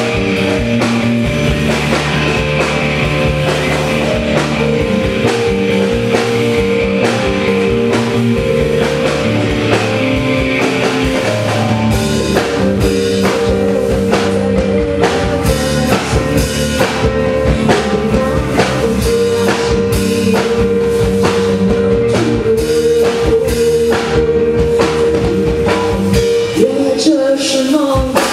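Live rock band playing a song, with a drum kit keeping a steady beat under sustained instrument notes.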